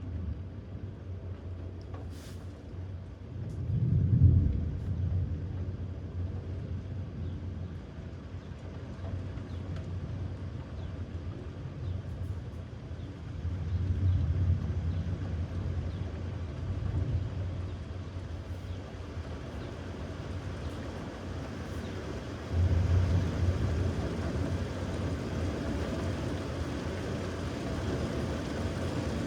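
Thunder rumbling low in several swelling rolls, the strongest about four seconds in and again near the twenty-three-second mark, over a steady background hiss.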